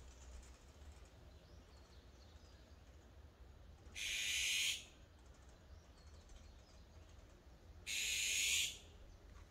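A bird giving short, harsh, high calls: two calls of under a second each, about four seconds apart, over a faint low rumble.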